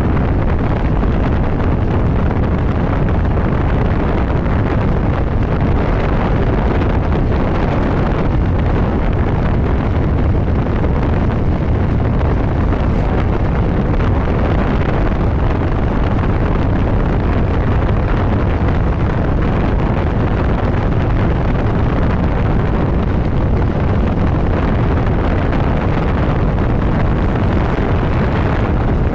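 Motorcycle riding at highway speed: steady, loud wind rush on the microphone, with the engine running underneath.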